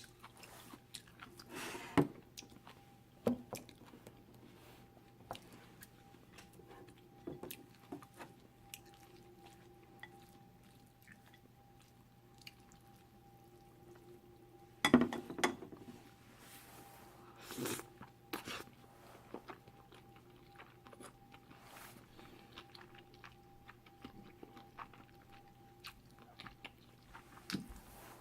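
Close-up chewing of chewy cold jjolmyeon noodles: wet clicks and smacks with a few louder bursts, the loudest about fifteen seconds in, over a faint steady hum.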